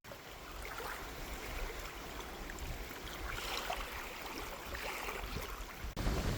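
Faint outdoor ambience: a soft, even rush with small scattered sounds, water-like in character. Near the end it switches abruptly to a louder low rumble.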